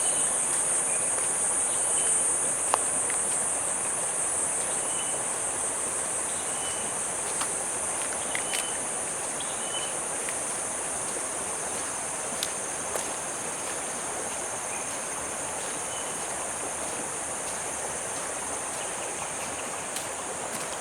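Steady high-pitched chorus of insects, a continuous shrill drone over a soft even hiss of outdoor ambience. Brief faint chirps and a few light ticks come through now and then.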